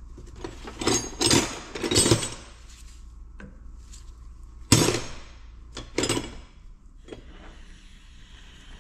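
Metal tools clanking and scraping on a seized Detroit Diesel 2-53 governor held in a vise as it is worked apart: a few rattling bursts in the first two seconds, then a sharp knock about five seconds in and another about a second later.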